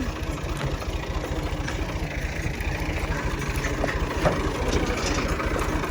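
Tractor's diesel engine running with a steady, even chugging, and a short knock about four seconds in.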